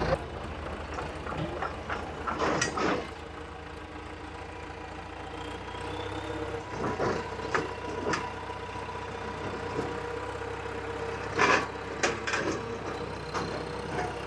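Heavy machinery engine running steadily at idle, with a few sharp clanks and knocks of metal as the old bulldozer is moved onto the trailer.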